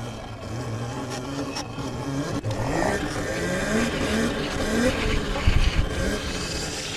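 Electric Sur-Ron dirt bike riding over bumpy ground, its motor whine rising and falling in pitch with the throttle. A few heavy low thumps come about five and a half seconds in.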